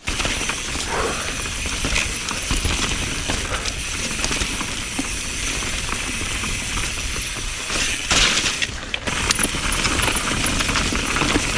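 Mountain bike riding down a rooty dirt trail: a steady rush of tyre and wind noise with frequent clacks and rattles as the bike bounces over roots.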